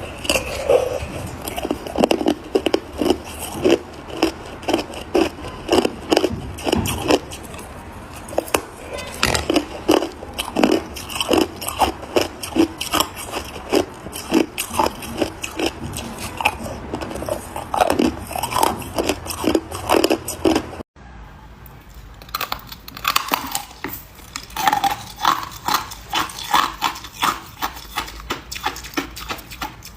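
A person biting and chewing ice close to the microphone: loud, rapid crunches two or three a second. About two-thirds of the way through the sound cuts out for an instant and the crunching resumes thinner, with less bass.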